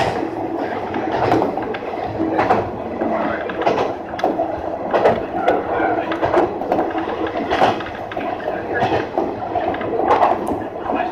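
Kanto Railway diesel railcar running along the line, heard from inside the driver's cab: a steady engine and running hum with short wheel knocks over rail joints at uneven intervals.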